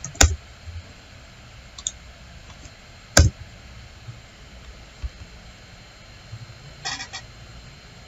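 Computer mouse clicking: two sharp clicks about three seconds apart, a couple of fainter ones between, and a quick run of clicks near the end, over a steady hiss.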